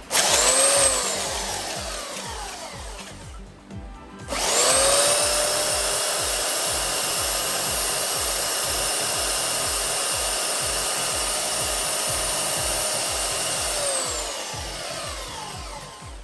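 Makita M9400B 940 W belt sander motor switched on and quickly cut off, its whine falling as it winds down. About four seconds in it is started again and runs at a steady full speed for about ten seconds, then is switched off and spins down.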